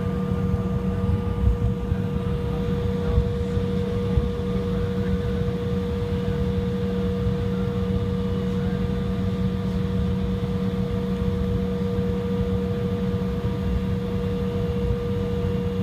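Steady hum and rumble inside a jet airliner's cabin on the ground before departure, with two steady droning tones over a low rumble.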